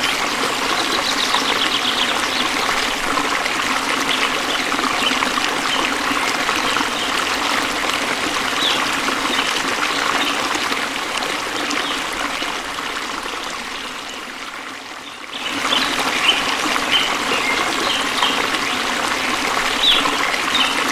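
Waterfall water splashing and rushing in a steady, loud hiss. The sound sinks gradually about two thirds of the way through, then comes back suddenly.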